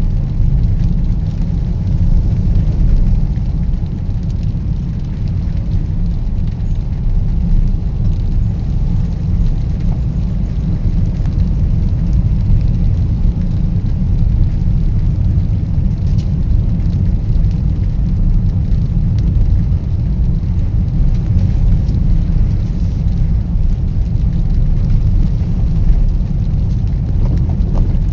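Heavy rain: a loud, steady rushing noise with a strong deep rumble underneath.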